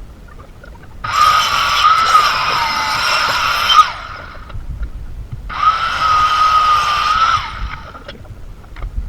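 Power saw run twice, each time for a few seconds, with a high whine under the cutting noise. The whine drops in pitch partway through the first run as the blade loads in the cut, then picks up again.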